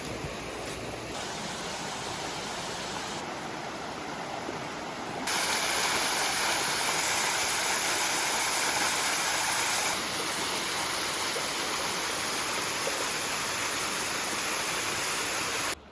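Rushing water of a mountain stream or waterfall, a steady hiss that jumps louder about five seconds in, eases slightly later on, and stops abruptly near the end.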